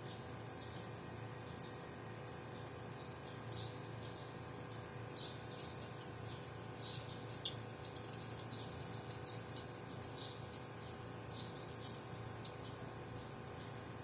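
Outdoor birdsong, with short chirps repeating throughout, and an insect's high pulsing trill that stops about six seconds in, over a faint steady hum. There is one sharp click about seven and a half seconds in.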